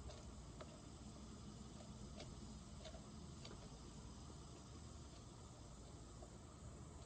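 Faint, steady high-pitched insect trill, with a few faint short chirps or ticks scattered through the first half.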